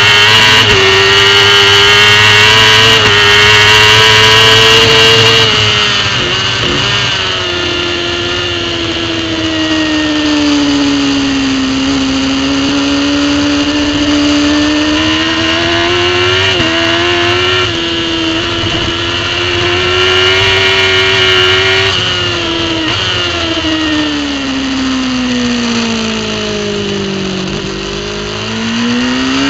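Racing superbike engine heard on board at speed: the engine pitch holds high, drops about five seconds in, sags and climbs again with a couple of short breaks midway, then falls to its lowest near the end before rising sharply as the throttle opens. A steady rush of noise runs underneath.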